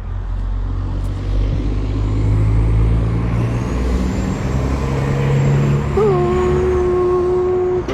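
A motor vehicle passing close, its engine rumbling and its noise swelling through the middle. About six seconds in, a steady pitched tone starts and holds.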